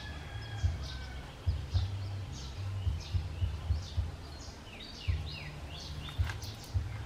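Small birds chirping in quick, short, downward-sliding notes, many times over, against a low uneven rumble on the microphone that gives occasional bumps.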